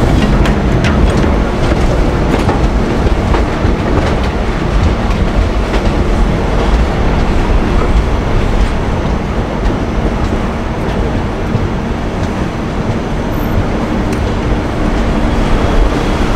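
Passenger train running along the track: a steady heavy rumble, with faint clicks from the wheels on the rails.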